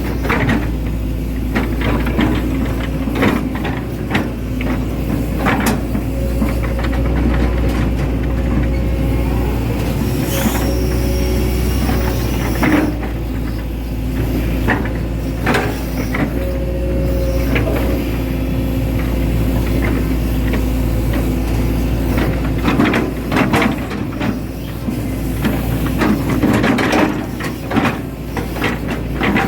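Hitachi Zaxis 110 hydraulic excavator working: its diesel engine runs steadily under load, with frequent clanks and knocks from the machine and brief whines.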